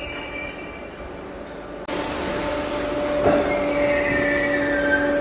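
A train moving through the station: a steady humming tone, with high squealing from the wheels on the rails. The sound jumps louder about two seconds in, and the squeal comes in again near the end.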